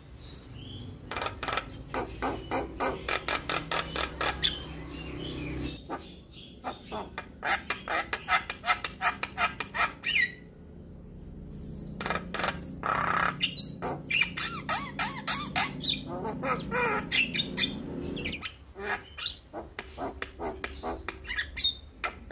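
Javan mynas (jalak kebo) in full song: rapid runs of harsh squawks, clicks and whistled notes, with a brief lull about ten seconds in.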